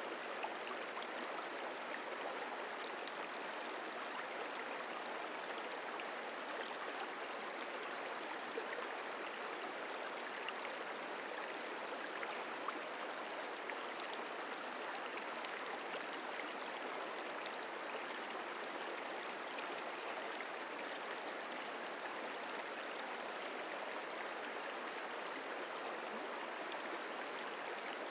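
The Merced River flowing: a steady, even rush of water.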